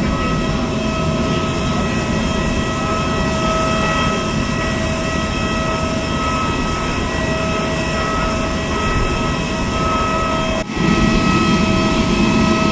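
Steady turbine whine over a loud rumble from an Airbus A320-200 airliner. A little over ten seconds in, the sound drops out for a moment, then comes back slightly louder and heavier.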